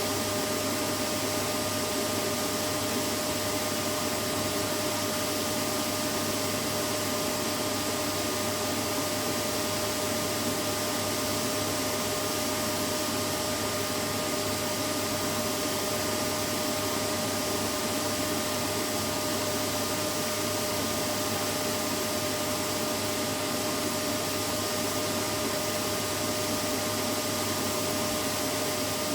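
Vacuum cleaner running steadily: an even, unchanging rush of noise with a steady hum and a whine near the upper middle, played as white noise for a baby to fall asleep to.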